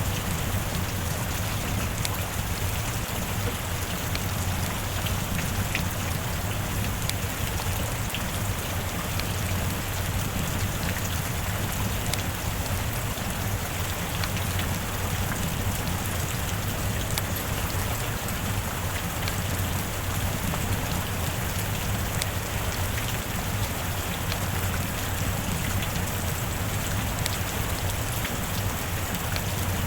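Steady heavy rain: a dense, even hiss of falling rain with many small drop ticks, holding at one level throughout.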